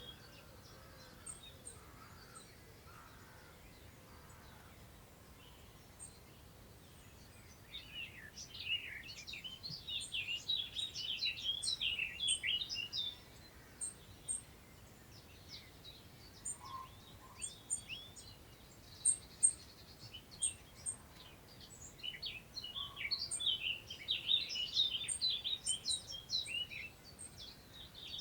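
A songbird singing two long, rapid, jumbled warbling phrases of about five seconds each, one about a third of the way in and one toward the end. Thin high chips sound between them, over a steady soft hiss of wind through long grass.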